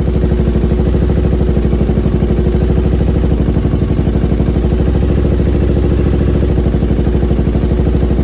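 2007 Triumph Thruxton 900's air-cooled parallel-twin engine idling steadily with an even pulsing beat. It runs on newly fitted carburettor jets that the owner still plans to adjust.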